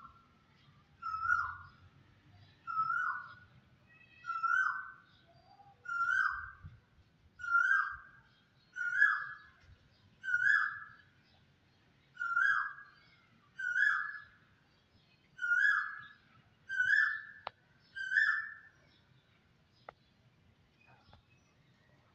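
A bird calling over and over: about thirteen short, falling notes, one roughly every one and a half seconds, stopping a few seconds before the end.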